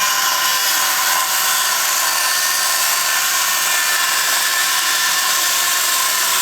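Electric saw running at full speed and cutting through wood: a steady motor whine with cutting noise.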